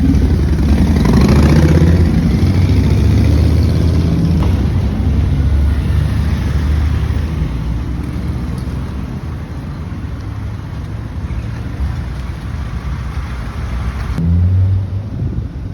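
Motorcycle engines running close by, one revving and passing in the first couple of seconds, with another swelling louder near the end.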